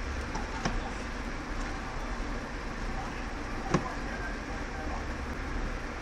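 Hex key clicking against screws as they are loosened, a few sharp clicks over a steady background rumble; the loudest click comes about two-thirds of the way in.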